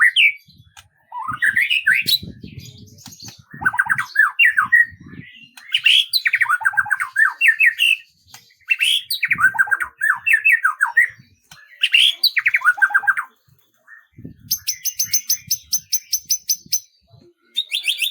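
A songbird singing: varied warbling phrases of quick rising and falling notes and trills, broken by short pauses, then a fast, even trill of high notes near the end.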